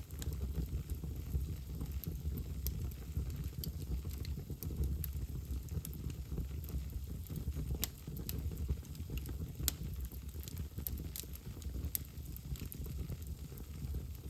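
Fire burning in a fireplace: irregular sharp crackles and pops over the steady low rumble of the flames.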